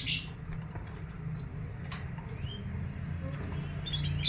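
Canary chirping with short, high, rising calls, broken by a few sharp clicks, over a steady low hum.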